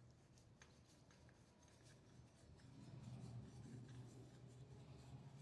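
Near silence: a faint low hum with a few light clicks, the hum growing slightly stronger about halfway through.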